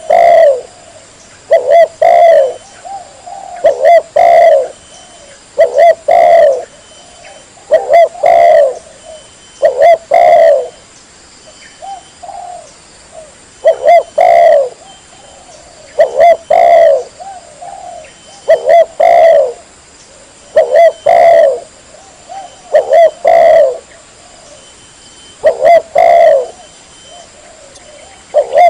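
Spotted dove (tekukur) cooing loud and clear, one multi-note coo phrase about every two seconds.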